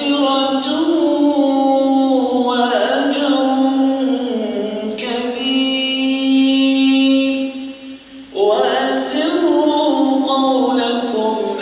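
A man's voice chanting Quran recitation in long, melodic held notes that glide slowly between pitches, with a brief breath pause about eight seconds in before the next phrase begins.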